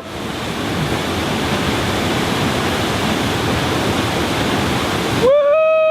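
Steady loud rush of a waterfall. About five seconds in it cuts off abruptly, and a person lets out a long, held "woo" cheer.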